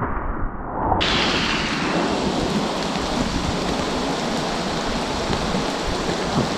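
Steady rushing hiss of storm water. It starts abruptly about a second in, after a duller, muffled stretch.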